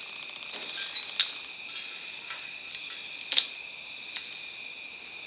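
A few sharp clicks and taps of hands working electrical tape around a motorcycle's spoked steel rim, the loudest about three and a half seconds in. Under them runs a steady high-pitched buzz.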